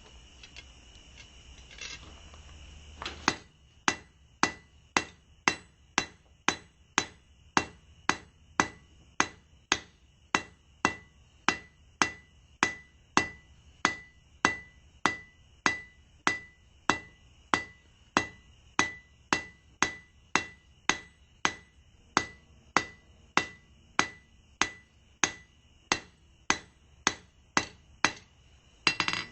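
Blacksmith's hand hammer striking hot steel on an anvil, drawing out a long taper for the hook end of a fire poker. After about three seconds of low hum, the blows come steadily at about two a second, each with a bright anvil ring.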